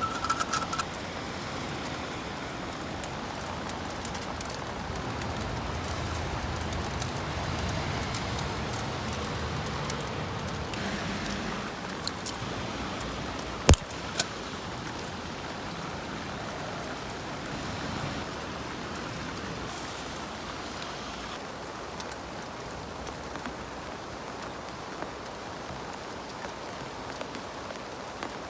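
Steady heavy rain falling, with two sharp clicks about halfway through.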